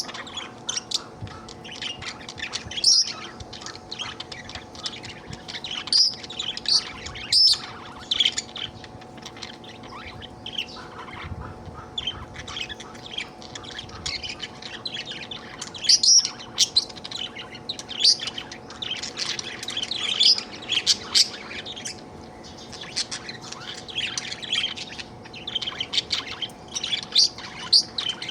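Budgerigar chattering and chirping without a break, with louder, sharper chirps every few seconds. This is the busy chatter of a happy budgie.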